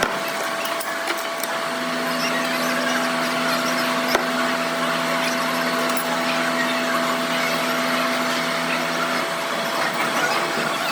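Steady machine noise with a constant tone, joined by a lower motor hum that starts about two seconds in and stops near nine seconds.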